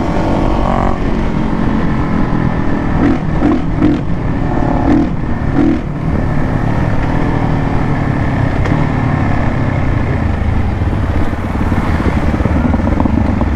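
Motorcycle riding at road speed: the engine runs steadily under heavy wind rumble on the rider's microphone, with a few short louder blips about three to six seconds in.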